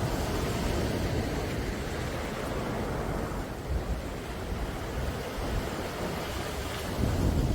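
Sea waves washing in, a steady rushing noise that swells at the start and again about seven seconds in, with low rumble underneath.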